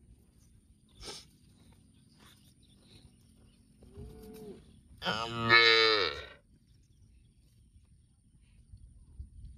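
A cow mooing: a short, softer call about four seconds in, then a loud moo lasting just over a second.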